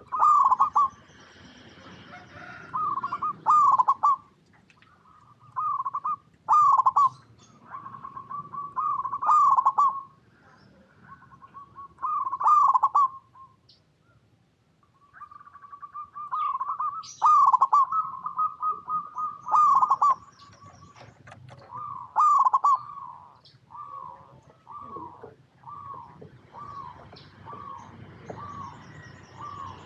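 Zebra dove (perkutut) cooing: repeated bursts of rolling coos with short pauses between them, then a run of evenly spaced single coos, a little more than one a second, in the second half.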